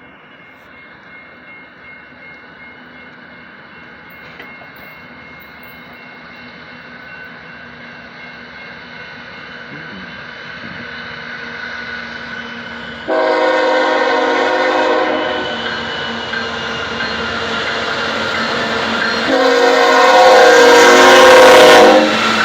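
BNSF diesel-electric locomotive approaching, its rumble growing steadily louder, then sounding its air horn in two blasts, the first about halfway through and a second, louder one near the end.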